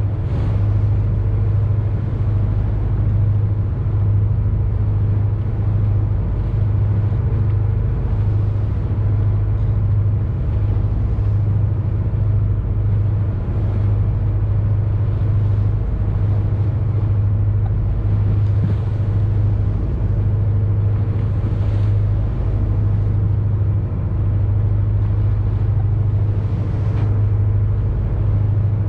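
Boat engine running with a steady low drone, with a few faint hissing swells over it.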